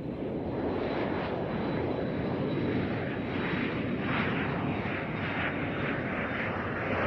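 Airplane engine running steadily for takeoff: a dense rushing noise with a faint high whine.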